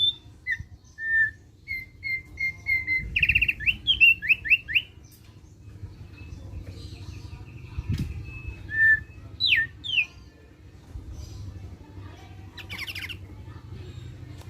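Thick-billed white-eye (opior paruh tebal) calling: a string of short chirps, then a run of quick sweeping notes, with more sweeps and a buzzy chatter after a pause. There is a single soft knock about eight seconds in.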